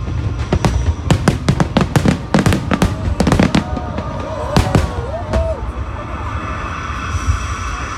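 Fireworks bursting in a rapid run of sharp bangs and crackles for about five seconds, then thinning out, with music playing underneath.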